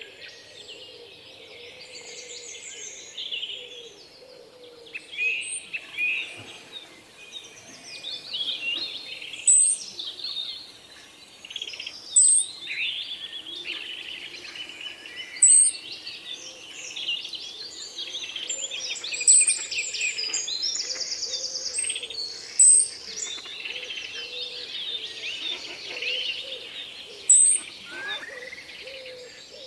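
Several songbirds singing and calling together, with a loud, sharp high note that comes back roughly every three seconds and a buzzy trill about two-thirds of the way in.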